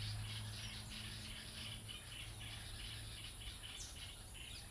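Faint background chirping in an even rhythm of about three pulses a second, over a low hum that fades out about two seconds in and a steady high-pitched whine.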